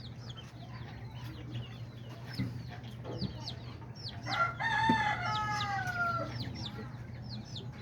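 A bantam rooster crows once, a crow of about two seconds that starts about four seconds in and falls in pitch at its end. Small birds chirp steadily in the background.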